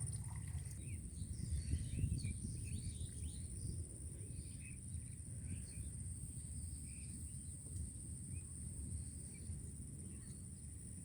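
Outdoor ambience: a steady high-pitched insect buzz, like crickets, with scattered short bird chirps over a constant low rumble.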